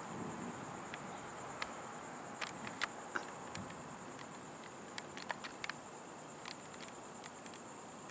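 Insects chirring steadily in one high-pitched band, with scattered sharp ticks about a dozen times, the loudest of them near three seconds and five seconds in.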